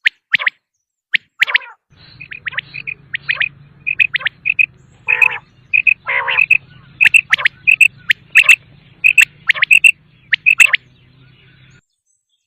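Quail calling: many short, sharp, high notes, often in quick clusters, with a few louder, lower, harsher calls among them. A faint low hum runs under most of it and stops near the end.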